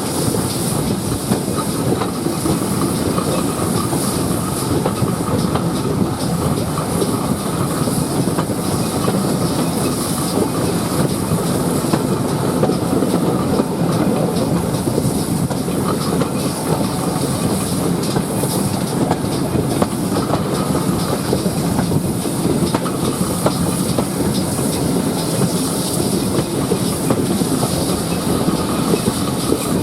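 A train hauled by GWR Prairie steam tank locomotive 5526 on the move: the steady running rumble and rattle of carriage wheels on the rails.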